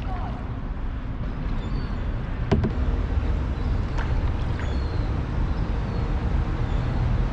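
Canoe being paddled on a river: a steady low rumble of wind on the microphone, with a few sharp knocks of the paddle against the canoe, the loudest about two and a half seconds in.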